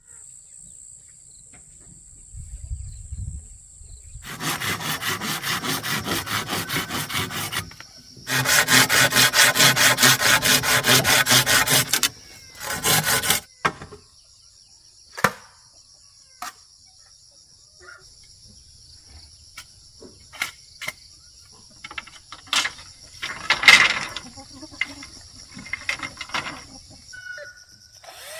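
Saw cutting through wood in two long runs of rapid strokes, then scattered knocks and taps. Insects keep up a steady high drone throughout.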